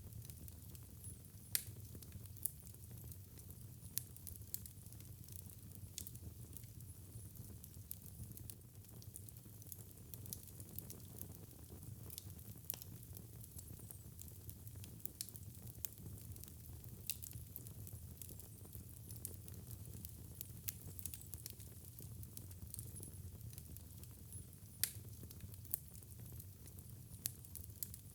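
Wood fire crackling in a fireplace: irregular sharp pops and snaps over a steady low rumble, a few pops louder than the rest.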